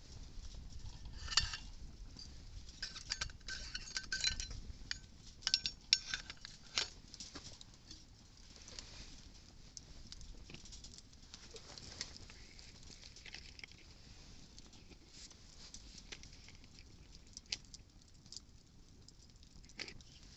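Wood fire crackling, with irregular sharp pops and snaps that are thickest in the first few seconds and thin out later. A faint low wind rumble sits under them early on.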